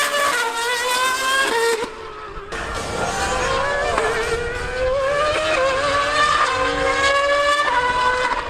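High-revving racing engine accelerating hard through the gears, its pitch climbing and dropping back at each upshift about once a second, with a brief lull about two seconds in.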